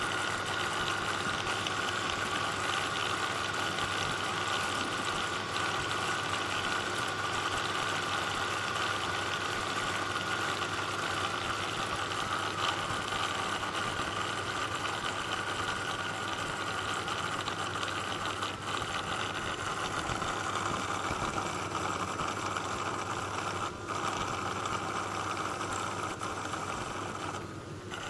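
MacBook Pro (Santa Rosa) cooling fan running with a steady, rough whirring rattle and a whine about 1 to 1.5 kHz, the sign of a failing fan motor rather than dust in the fan.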